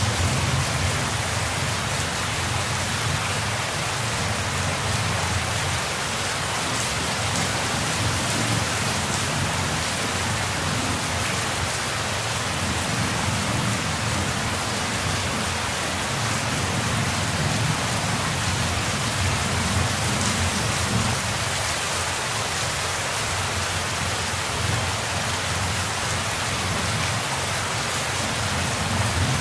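Heavy rain falling steadily, a dense even hiss. Low thunder rumbles swell and fade beneath it several times.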